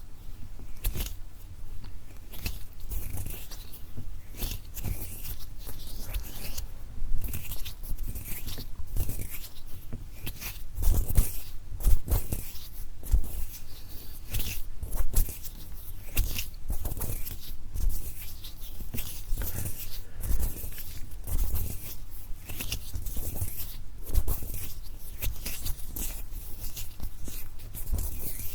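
ASMR hand sounds close to the microphone: many quick, irregular rustling and crackling strokes of skin on skin, with soft low thumps.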